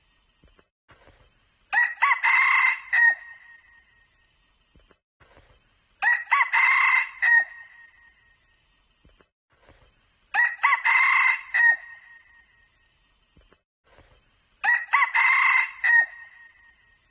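Junglefowl crowing: four short, clear crows at even intervals of about four seconds, each one alike.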